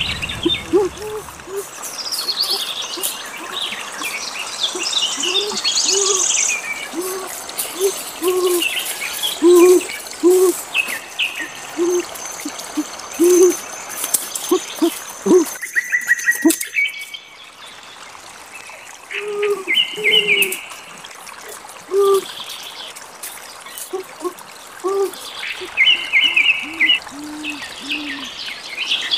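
Forest bird calls: a low hooting note repeated about once or twice a second, with higher chirps over it. The hooting stops briefly in the middle, then carries on.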